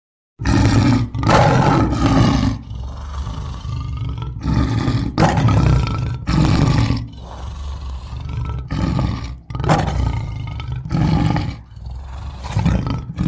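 Custom honey badger sound effect: a run of about ten loud, rough animal calls, each lasting up to about a second and a half with short gaps between, starting about half a second in.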